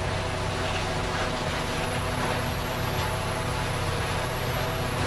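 A heavy engine running steadily at constant speed, with a faint high whine over it.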